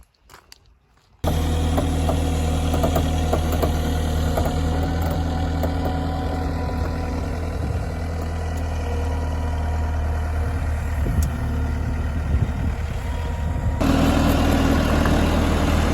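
A motor engine idling steadily with a deep, even hum, starting abruptly about a second in. Near the end it cuts to a slightly louder, steady engine sound.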